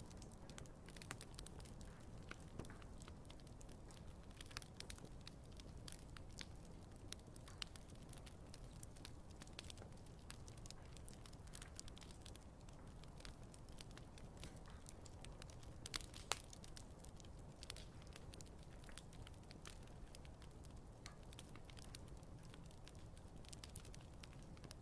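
Wood campfire crackling, with frequent small irregular snaps and pops over a faint low rumble. One louder pop comes about sixteen seconds in.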